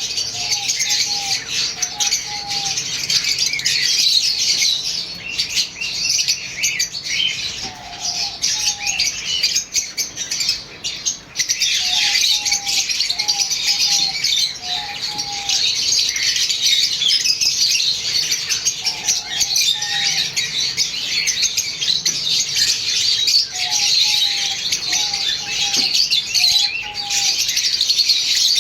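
A flock of lovebirds chirping and chattering, a dense, continuous high-pitched twittering, with a short run of lower notes repeating every few seconds.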